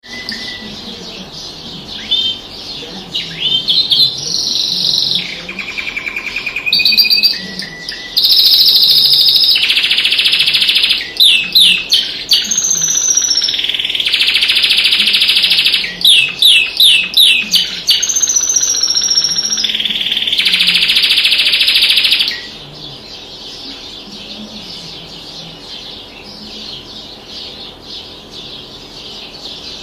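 Songbird singing a loud, fast song of buzzy trills and rapid repeated down-sweeping whistles, with high sustained rolls. About 22 seconds in the loud song stops and only softer background chirping remains.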